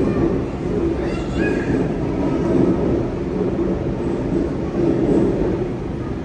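Sydney Trains double-deck electric train moving through the platform, making a loud, steady running noise of wheels on rail.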